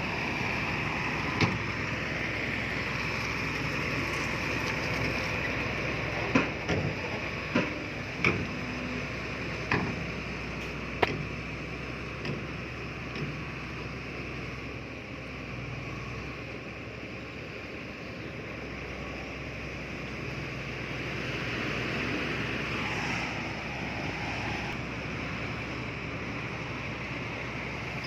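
Heavy construction machinery running steadily, with a string of sharp knocks and clanks about 6 to 11 seconds in.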